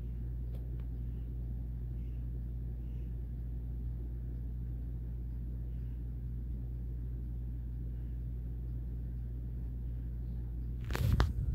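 A 52-inch Regency ceiling fan running steadily on medium, together with other fans in the room: an even motor hum and rush of air. A brief bump near the end.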